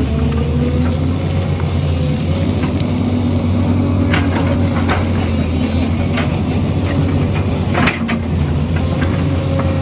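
Excavator's diesel engine running steadily, with several sharp knocks over the middle of the stretch, the loudest about eight seconds in.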